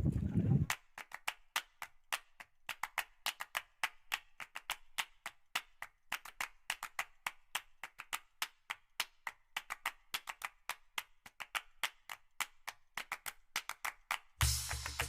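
A rapid, uneven run of sharp dry clicks, several a second. Near the end, loud percussive music comes in.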